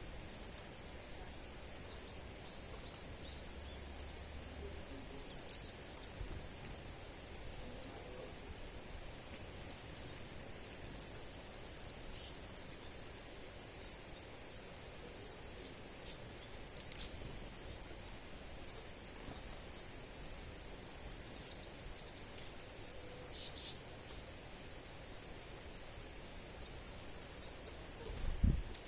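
Small birds chirping: many short, very high-pitched calls come irregularly over a faint steady background hiss. There is a brief low thump near the end.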